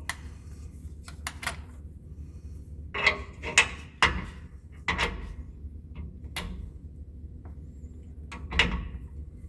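A steel ball joint press being set against a truck's torsion bar key, making scattered metal clanks and knocks, about nine in all, over a steady low hum.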